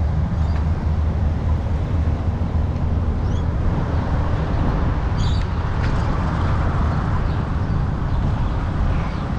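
Steady low rumble of wind buffeting the microphone, mixed with tyre and road noise from a moving e-bike, with a couple of faint short high chirps around the middle.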